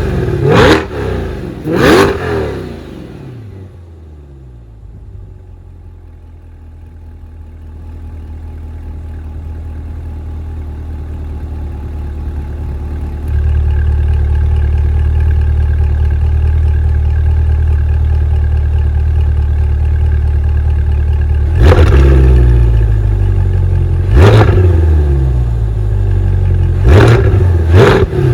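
2020 Corvette C8 Stingray Z51's 6.2-litre LT2 V8 through its performance exhaust, blipped twice right at the start and then settling to idle. About halfway through the idle suddenly gets louder and deeper, and near the end it is free-revved four times in quick succession.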